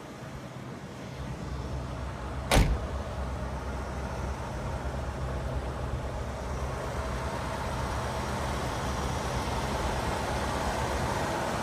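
1977 Cadillac Eldorado's V8 running and road noise of the moving car, a steady low rumble that builds gradually. One sharp thump about two and a half seconds in.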